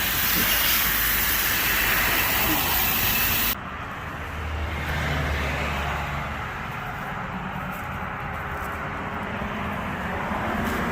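High-pressure water spray hissing, cutting off suddenly about three and a half seconds in. A quieter low hum carries on afterwards.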